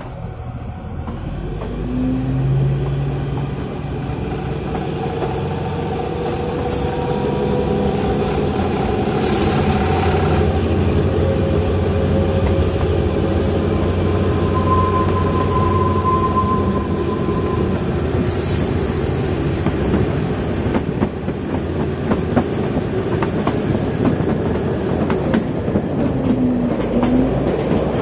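Narrow-gauge toy train running along the track, heard from an open carriage window: a steady rumble and clatter of wheels on rails that grows louder over the first several seconds as the train gathers speed. Thin, drawn-out squealing tones come and go, the clearest about halfway through, as the wheels take curves.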